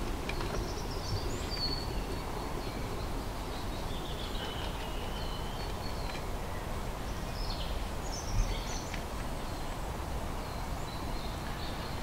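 Woodland ambience: scattered faint, high-pitched small-bird calls and chirps over a steady background hiss and low rumble, with a brief low thump about eight seconds in.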